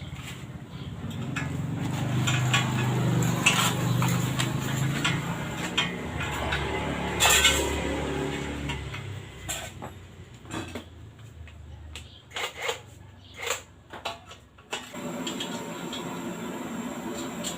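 Yamaha FIZ R's two-stroke single-cylinder engine running through an aftermarket AHM exhaust, growing louder about two seconds in and falling away near nine seconds. This is followed by a series of sharp metallic clinks and knocks, and a steady hum returns near the end.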